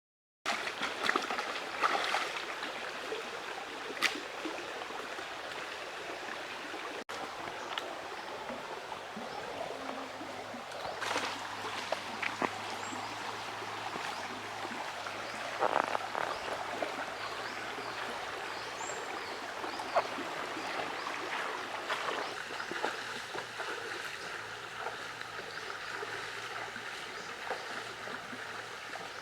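River water running steadily, with a few short knocks and splashes scattered through.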